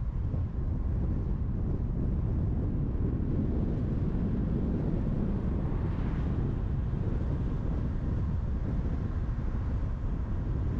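Steady road noise from a car driving at speed: a low rumble of tyres and engine with wind noise over it.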